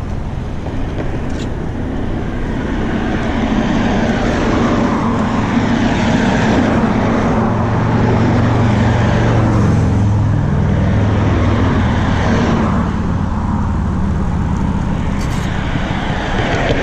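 Steady road traffic noise with cars passing close by. The noise swells in the middle as a vehicle with a low engine hum goes past, then eases off.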